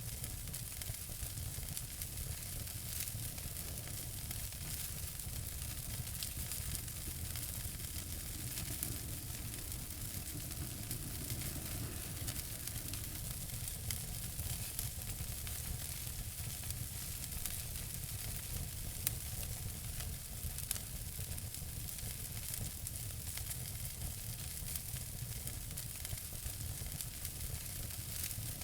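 Wood fire in a fireplace crackling steadily, many small pops and snaps over a low rumble and hiss, with a couple of slightly louder pops in the second half.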